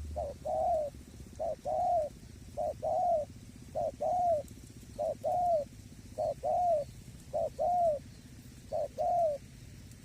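Spotted dove cooing: eight two-part coos in a steady series, each a short note followed by a longer arched one, about one every 1.2 seconds.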